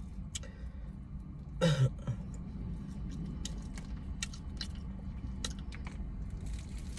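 Close-up chewing of crispy fried chicken: small crisp clicks and wet mouth sounds scattered through, with a brief 'mm' from the eater about two seconds in. A steady low hum sits underneath.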